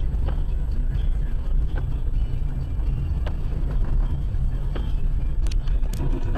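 Steady low engine and road drone of a moving car, as picked up by a dashcam inside the cabin, with a few sharp clicks near the end.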